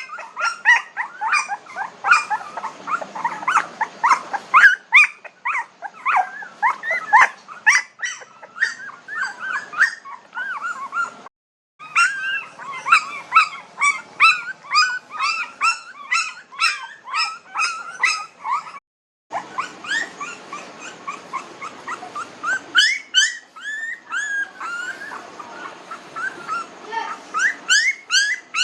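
Several young Pomeranian puppies whimpering and squeaking at once, a constant overlapping chorus of short high-pitched whines and yips, broken by two brief silences.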